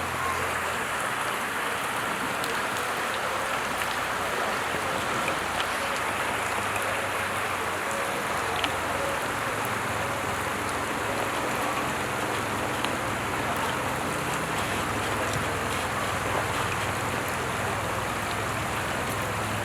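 Steady heavy rain falling and pattering on surfaces, with a low engine hum underneath.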